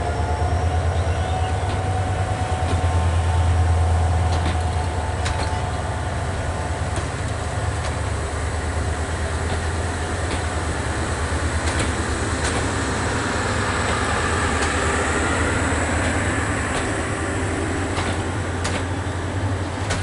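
Subarna Express passenger train rolling past: a steady low rumble of the coaches on the track, with scattered clicks of wheels over rail joints.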